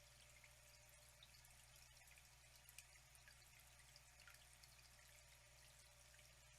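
Faint trickling water with many small scattered drips, over a low steady hum.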